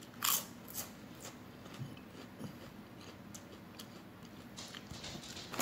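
A potato chip crunching in the mouth: one crisp bite about a quarter second in, then quieter crunching chews.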